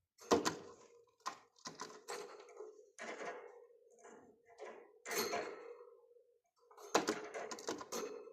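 Irregular clicks, taps and knocks of small objects being handled, loudest at the start and at about seven seconds, over a steady low hum.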